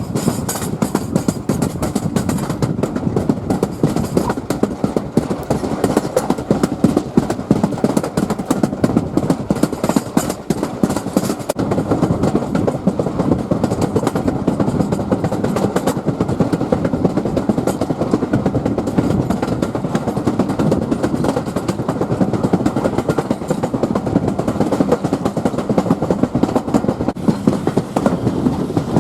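Train running along the track: a steady rumble, with many sharp clicks and knocks from the wheels over the rails during the first half.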